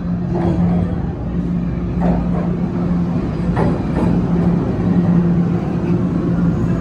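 TTC Toronto Rocket subway train running through the station: a steady low rumble with a constant motor hum, a few knocks from the wheels, and the level slowly rising.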